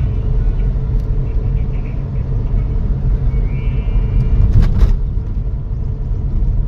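Steady low rumble of a road vehicle, with a brief high tone a little past three seconds in and a few sharp knocks about a second later.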